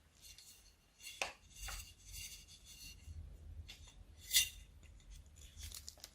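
Slime being mixed and pressed: a run of sticky crackles and sharp clicks, the loudest about a second in and again past the middle.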